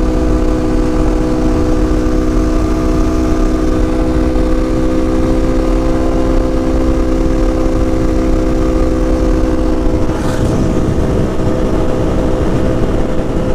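Lifan KP motorcycle engine running at a steady high speed under throttle, with a low rumble of wind underneath. About ten seconds in, the steady engine note breaks up and drops away as the bike comes off the throttle.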